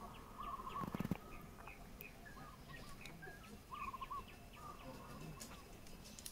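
Birds calling, one repeating a quick run of four or five chirps every second or two, with scattered single chirps around it. A brief rustle or knock sounds about a second in.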